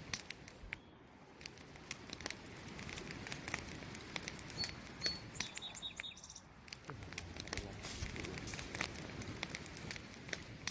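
Wood campfire crackling, with frequent irregular sharp pops and snaps, and crickets chirping.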